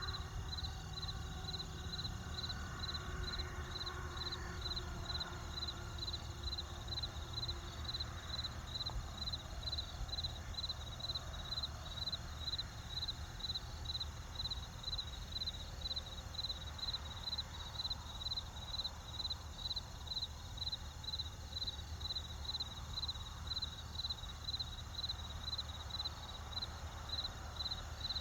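Crickets chirping steadily, a high chirp about twice a second, over the low steady rush of a campfire. A few faint held tones fade out over the first several seconds.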